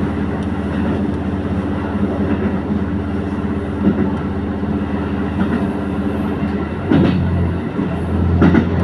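Diesel train running on the line, heard on board: a steady engine drone under the rumble of the wheels, with wheel clicks over the rail joints. The engine note shifts about seven seconds in, and short knocks come about seven and eight and a half seconds in.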